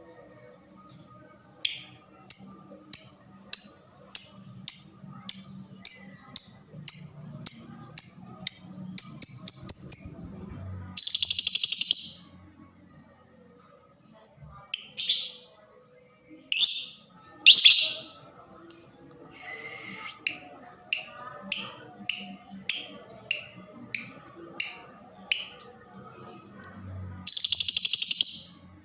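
Lovebird calling: runs of short, sharp high chirps at about three a second, broken by several longer harsh screeching calls of about a second each.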